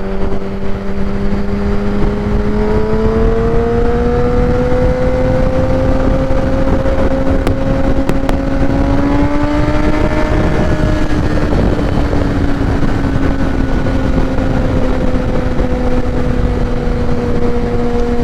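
2016 Kawasaki ZX-10R's inline-four engine through a Graves race exhaust, cruising at a steady note whose pitch rises gradually toward the middle and then eases back a little. Heavy wind noise on the microphone runs under it.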